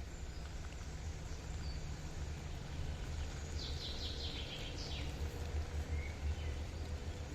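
Steady low rumble and hiss of outdoor ambience, with a bird calling a short run of quick high notes about three and a half seconds in.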